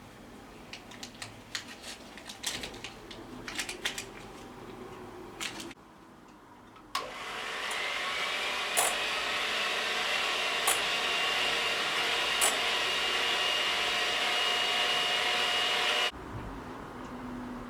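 Clinks of utensils and dishes, then an electric kitchen appliance's motor switches on about seven seconds in. It runs steadily for about nine seconds, its whine rising slightly as it gets up to speed, with a few light knocks while running, and cuts off suddenly.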